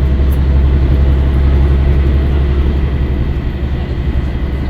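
Scania L113CRL bus's six-cylinder diesel engine running with a steady, loud low drone.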